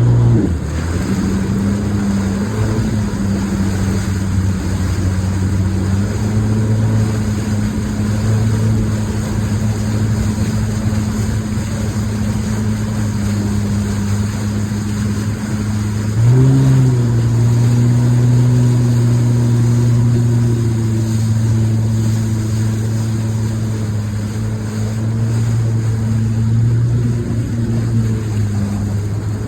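Pontoon boat's outboard motor running steadily underway. It picks up right at the start and again about halfway through, with a short rise in pitch as the throttle opens, then holds steady.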